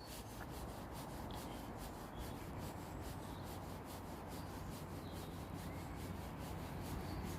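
Faint, steady rushing noise of an approaching Northern Ireland Railways Class 3000 diesel multiple unit, slowly growing louder toward the end.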